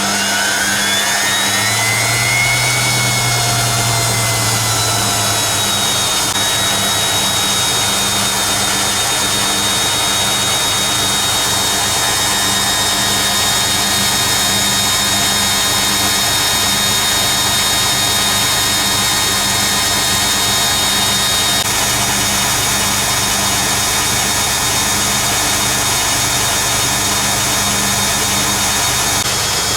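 Hoover Keymatic A3112 washing machine speeding up into the first, 500 rpm phase of its final spin. The motor's whine rises in pitch over the first few seconds, then settles into a steady run at spin speed.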